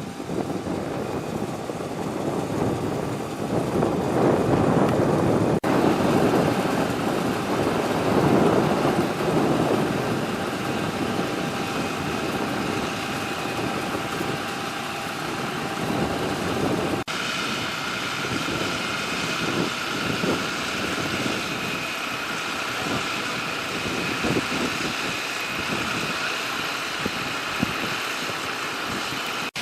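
A fire truck's engine running steadily over a dense rushing noise, with a thin steady whine that is clearest in the second half.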